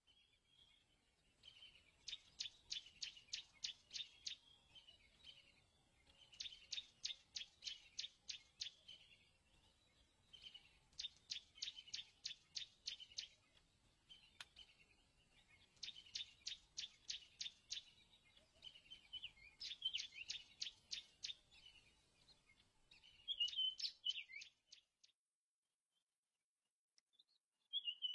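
A bird calling: short series of quick, sharp, high notes, six series repeated every four to five seconds, faint, then a brief call near the end.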